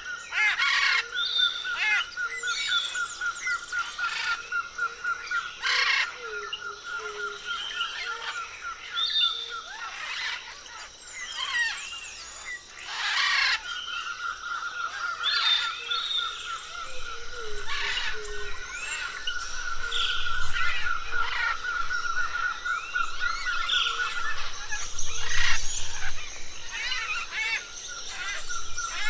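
Mixed chorus of tropical forest birds calling, with many short chirps, whistled glides and a few loud sharp calls. Under it runs a steady, rapid trill on one pitch that stops about ten seconds in, returns a few seconds later and breaks off again near the end.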